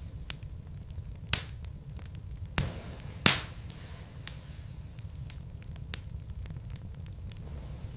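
Wood logs burning in a fireplace: a steady low rumble of flame with frequent small crackles and a few sharp pops, the loudest about three seconds in.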